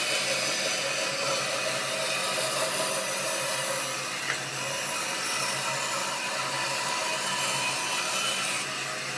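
A power tool working wood, running steadily: an even rasping noise over a constant motor hum.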